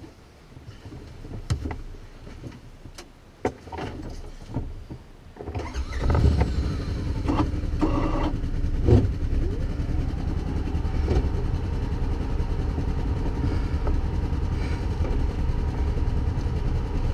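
A few scattered clicks and knocks, then, about five seconds in, an off-road vehicle's engine starts and settles into a steady idle.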